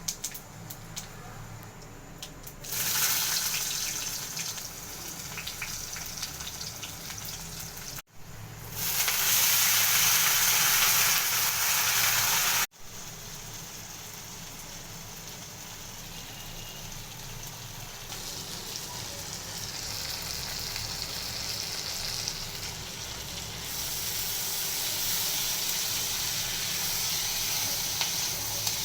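Food frying in hot oil in a pan: a loud sizzle starts about three seconds in, is loudest in the middle stretch, and breaks off sharply twice before settling into a steadier, softer sizzle.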